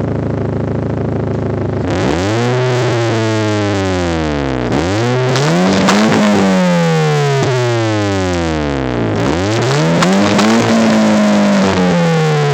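1998 Mitsubishi Eclipse engine through an aftermarket DC Sports exhaust, idling briefly and then revved three times, each rev climbing and then sinking back over a few seconds. Super loud.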